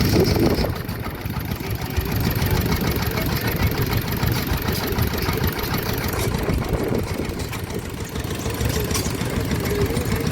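Vintage stationary engine running steadily, a continuous low mechanical beat.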